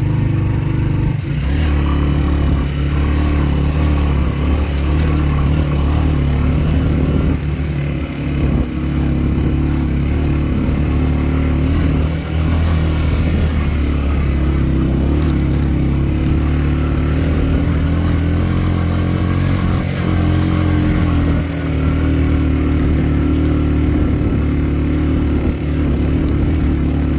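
A motor vehicle's engine running steadily under way, its pitch shifting down slightly about twenty seconds in.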